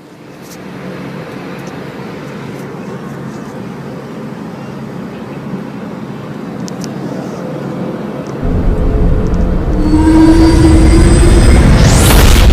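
Steady airliner cabin noise with a low hum, then about eight seconds in a much louder deep rumble cuts in, joined by steady humming tones, and ends in a fast rising whoosh: a starship engine and flyby sound effect of the Star Trek Enterprise.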